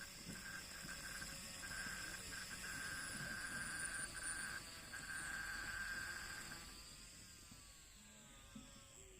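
Small DC motor running with a faint steady high whine that drops out briefly several times, then winds down, its pitch sliding lower over the last couple of seconds.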